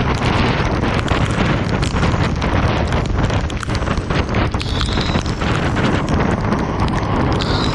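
Heavy rain falling steadily, with many separate drops tapping and splashing on nearby surfaces.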